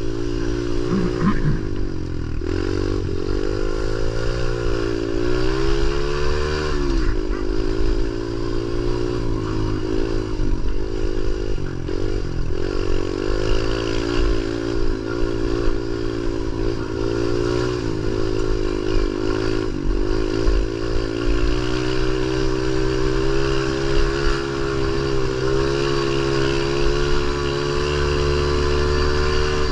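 Pit bike engine revving up and down over and over as the rider rides and works the throttle, then running at a steadier speed for the last several seconds.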